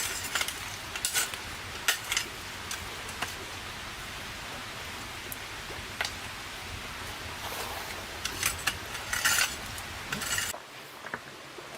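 Metal utensil clinks and scrapes against a cooking pot, over a steady hiss. About ten seconds in, the sound cuts to a steady rushing hiss.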